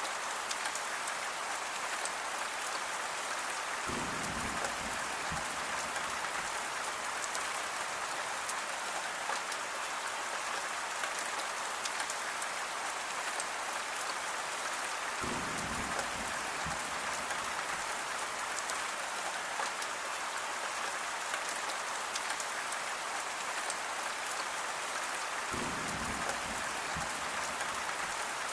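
Steady rain falling on a surface, an even hiss with scattered drops. A short low rumble comes in three times, about ten seconds apart.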